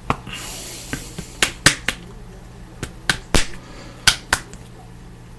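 Trading cards and plastic card holders being handled and filed: a string of sharp clicks and taps, with a short sliding hiss near the start.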